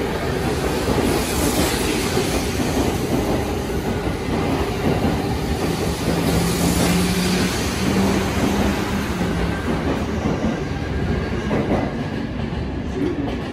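Electric commuter train running along the platform close by, with steady wheel-on-rail noise and a low motor hum that steps up slightly in pitch around the middle.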